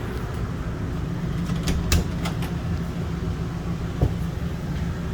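A steady low hum, with a quick cluster of sharp clicks and knocks about two seconds in and a single knock near four seconds.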